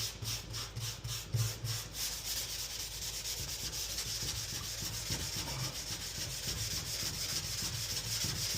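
Hand sanding of cured Bondo body filler with 120-grit sandpaper: quick back-and-forth strokes, about three to four a second, for the first couple of seconds, then a steadier continuous rasping.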